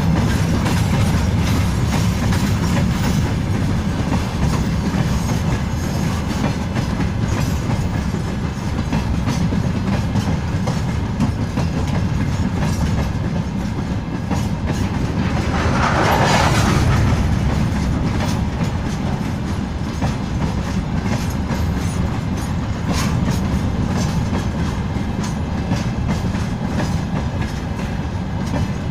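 Freight train wagons rolling past: a continuous low rumble with wheels clacking over rail joints. A brief louder swell comes a little past midway.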